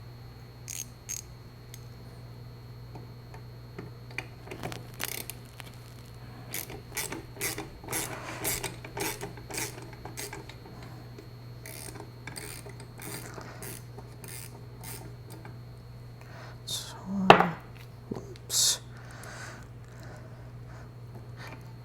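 Scattered clicks, taps and scrapes of hand tools and small parts being worked while a disco light fixture is taken apart, over a steady low hum. A louder knock comes about seventeen seconds in and another about a second and a half later.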